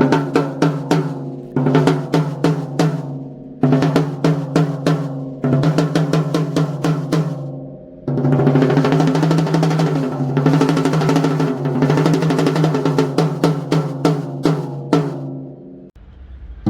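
Mapex Black Panther 14×4.5 snare drum being played: several short runs of strokes over a steady low ring, then a continuous roll from about eight seconds in until shortly before the end.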